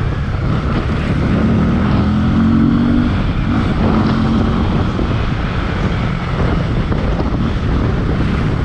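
Heavy wind noise on the microphone of a 300 cc motorcycle while it is ridden, with the engine running underneath. A steady engine note stands out between about one and four seconds in.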